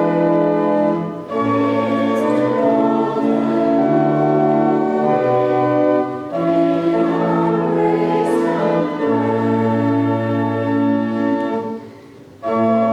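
A hymn sung by many voices with accompaniment, in long held phrases with brief breaks between them, one about a second in, one about six seconds in, and a longer one near the end.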